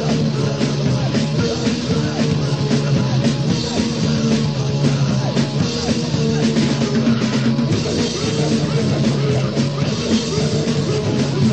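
Loud, distorted punk music from a crust/hardcore band recording, running steadily without a break.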